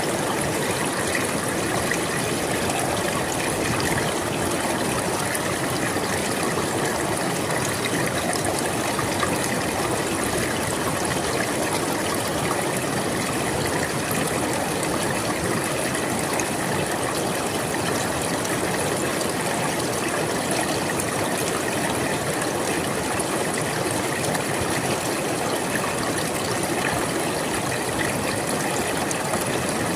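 River water flowing steadily, a continuous even rushing and babbling with no change in level.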